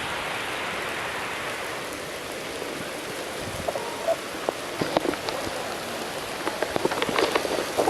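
Rain from a summer thunderstorm falling steadily, with single drops striking close by in sharp ticks that come more often toward the end.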